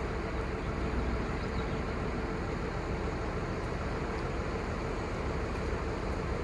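The crane truck's 5.9L Cummins six-cylinder turbo diesel running steadily, a low drone with a steady mid-pitched whine over it.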